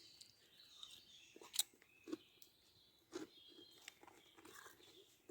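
A few faint, short crunches of someone chewing crisps, in near silence.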